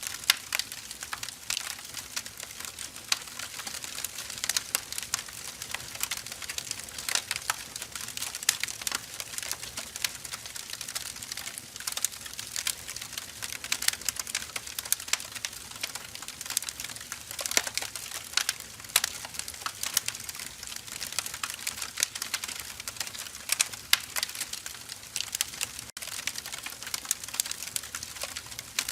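Firewood burning in a fire, crackling and popping in a dense, irregular run of sharp snaps of varying loudness over a steady hiss.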